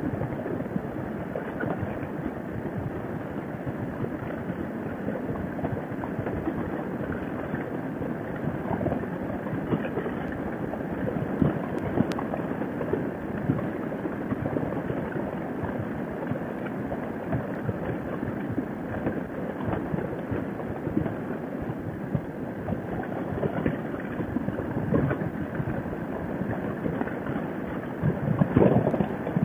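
Harley-Davidson Sportster V-twin engine and wind noise at steady highway cruising speed: an even, unbroken noise with no distinct pitch.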